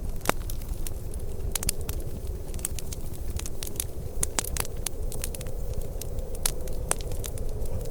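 Wood fire crackling, with irregular sharp pops over a steady low rumble; the sharpest pop comes about a third of a second in.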